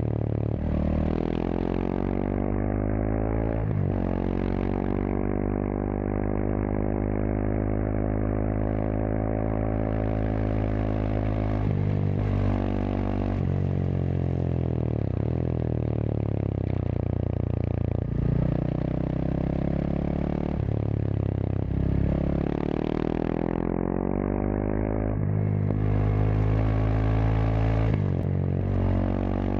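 Kawasaki KLX230SM's single-cylinder four-stroke engine running through a K-Factory FRC slip-on silencer while riding. The revs climb and then drop sharply at each gear change, again and again.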